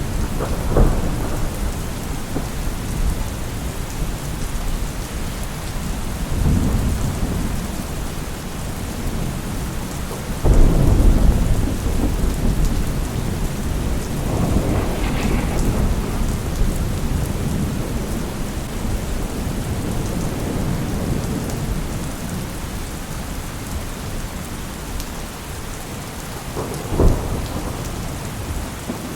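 Steady rain with thunder: a sharp crack about a second in, a long low rumble around ten seconds in that is the loudest moment, further rumbles around six and fifteen seconds, and another crack near the end.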